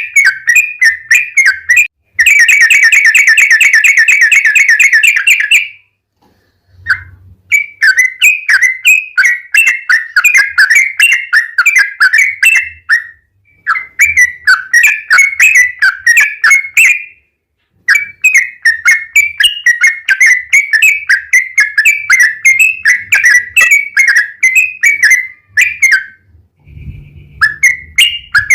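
Yellow-vented bulbul (trucukan) singing long, rapid runs of chirpy notes, with a fast, dense trill from about two to six seconds in. Brief pauses separate the phrases.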